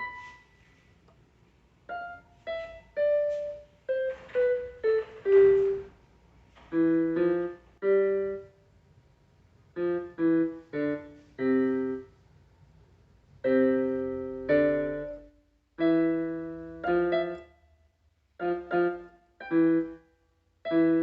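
Piano music: a short falling melody of single notes, then a series of chords struck in pairs with short pauses between them.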